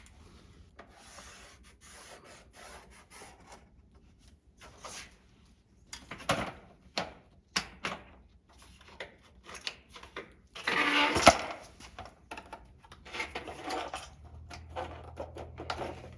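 Rubbing, scraping and light knocks of a large plastic rocker panel being handled and marked, with one louder scrape about eleven seconds in.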